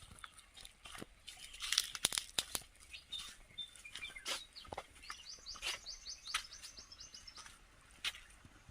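Wild birds chirping, with a fast trill of short high notes about five seconds in, over scattered crunching and crackling, like steps on dry leaves and gravel.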